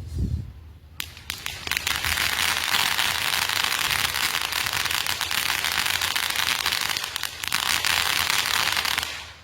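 Consumer firework crackling: a dense, continuous hail of sharp crackles for about eight seconds, with a brief lull near the end, then cutting off suddenly. A short low thump comes just before the crackling starts.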